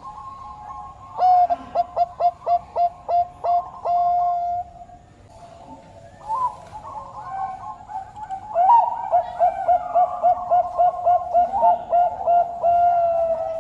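Zebra dove of the Thai-bred 'Bangkok' perkutut type singing. It gives two bouts of rapid staccato cooing notes, about three to four a second, each ending in a longer held coo. The second bout starts a little past the middle.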